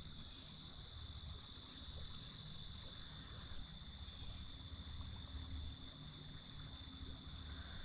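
Steady chorus of insects, with two continuous high-pitched tones over a faint low rumble.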